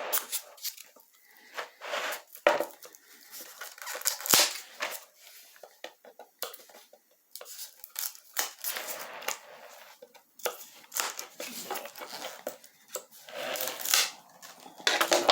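Old styrofoam foam-insulation base being pulled, broken and torn away from a cured rubber piece: irregular crunching and tearing with sharp cracks.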